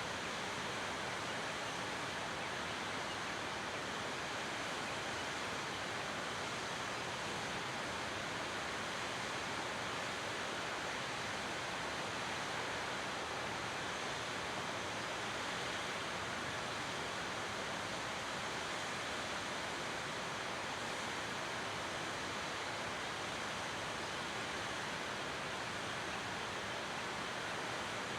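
Waterfall rushing, a steady even roar of falling water that does not change.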